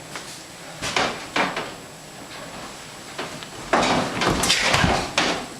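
A few sharp knocks, then about a second and a half of louder clattering and rustling.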